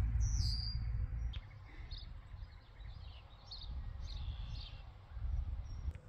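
Birds chirping: a falling call at the start, then several short chirps. Under them is a low rumble that drops away after about a second and a half and swells briefly again near the end.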